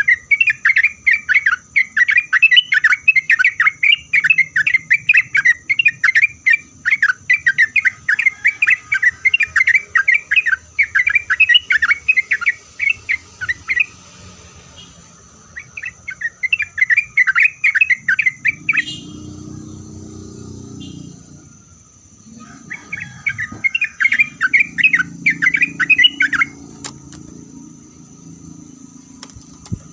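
Yellow-vented bulbul (trucuk) singing a rapid, bubbly chattering song in three long bouts, the first running about thirteen seconds, then two shorter ones after brief pauses.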